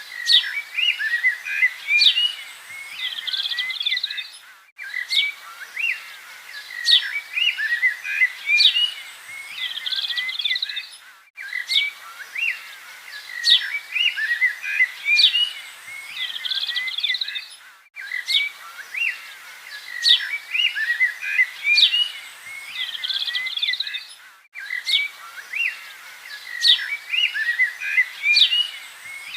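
Several birds chirping and singing over a faint hiss. The same short stretch of birdsong repeats about every six and a half seconds, with a brief gap between repeats: a looped recording.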